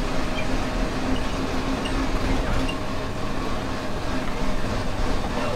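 Amusement-park train running steadily along its track, heard from an open carriage: a continuous rumble of the wheels on the rails with a faint steady hum.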